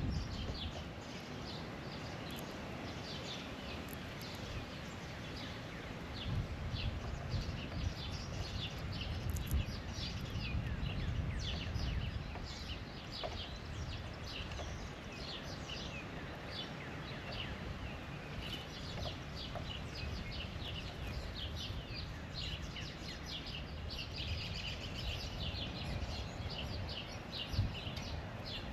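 Birds chirping outdoors: many short, high chirps overlapping almost without pause, over a low background rumble.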